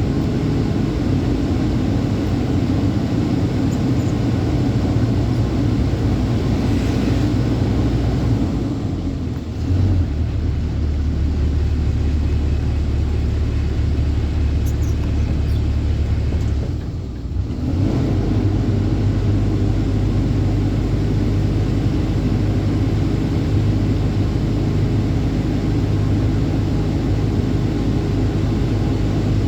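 Truck engine running steadily on the move. Its note shifts lower about ten seconds in and changes back after a brief dip in level around seventeen seconds.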